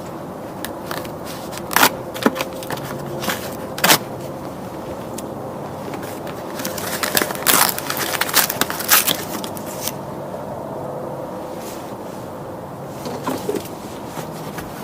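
Handling of packing material on a new folding bike: a few sharp clicks and knocks, then a few seconds of crinkling, crackling rustle in the middle.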